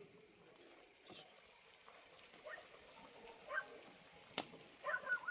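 Domestic geese honking, a couple of single calls and then a quick run of honks near the end, over a faint steady hiss, with one sharp click about four seconds in.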